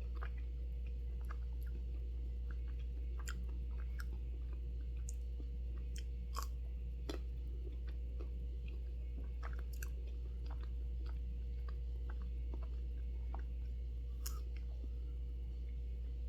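Close-miked chewing and biting on a fruit sorbet ice-cream bar: scattered short wet mouth clicks, over a steady low hum.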